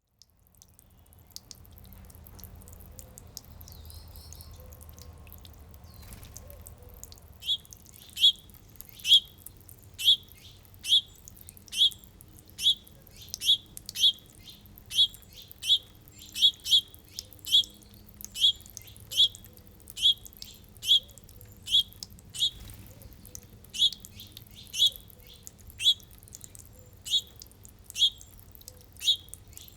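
A songbird repeating a short, sharp call that sweeps downward, about once a second. The calls start several seconds in and are the loudest sound.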